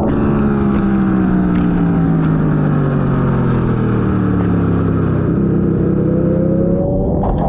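Ducati V2 motorcycle's V-twin engine running. Its pitch falls steadily for about five seconds as the bike slows, holds for a moment, then starts to rise again near the end as it accelerates.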